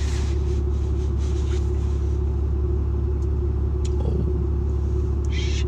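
Steady low rumble of a truck's engine heard from inside the cab, with a constant tone running through it. A faint click about four seconds in and a short hiss near the end.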